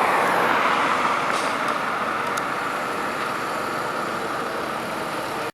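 Steady motor-vehicle noise, slowly fading, that stops suddenly at the end.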